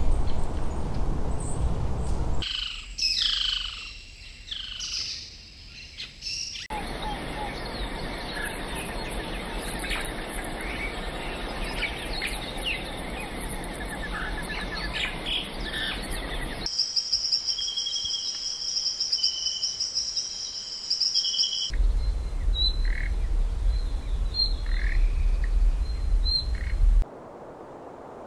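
Tropical forest bird ambience: several different recordings of birds chirping and calling, switching every few seconds. Falling whistled calls come first, then a dense chorus of chirps under a steady high hiss, then a long high trilling, then sparse chirps over a low rumble.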